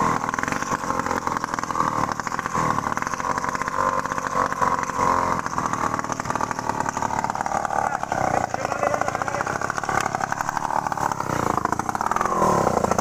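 A small engine running steadily, its pitch shifting near the end.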